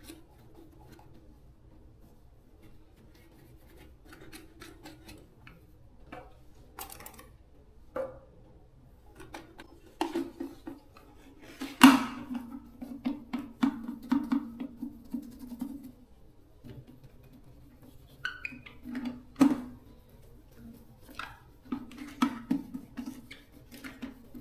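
Metal parts and hand tools being handled during repair work: scattered clinks and taps, a sharp metallic knock about halfway through, then a few seconds of scraping, with more clinks near the end.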